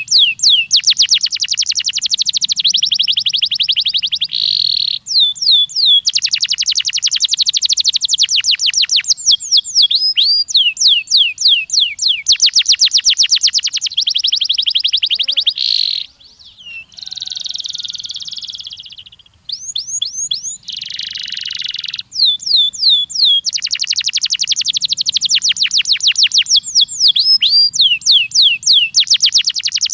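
Domestic canary singing a long, loud song of fast trills and rolls. Each phrase is a rapid run of one repeated note, and the note type changes every second or two. The song breaks off briefly about sixteen seconds in, then goes on.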